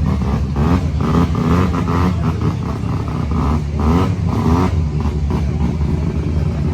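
Car engine running, its revs rising and falling over a steady low rumble.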